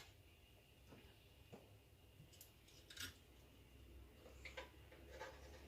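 Near silence with a few faint, scattered clicks and light taps, with a low steady hum underneath.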